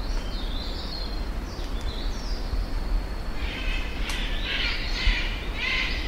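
Western parotia (Parotia sefilata) giving a harsh, rapid scolding call series from about halfway through, after a few thin, high twittering notes from other birds. A steady low rumble lies underneath.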